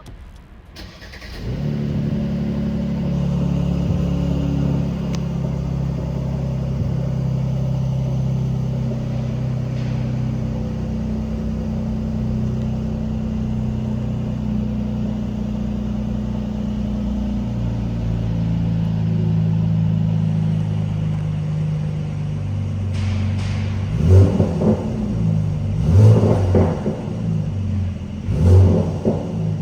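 Mercedes-AMG C43's twin-turbo V6 with AMG performance exhaust, in comfort mode, starting up about a second and a half in and settling into a steady idle drone. Near the end the throttle is blipped three times, each rev rising and falling quickly.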